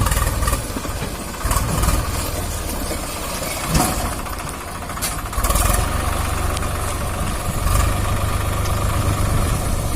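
Heavy diesel engine running with a steady low rumble that swells several times, with a couple of short knocks in the middle.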